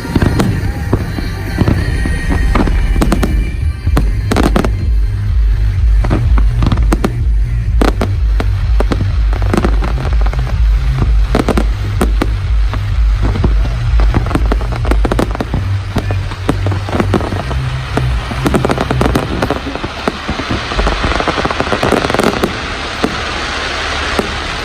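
Fireworks display: a fast, continuous run of sharp bangs and crackles over a deep low rumble.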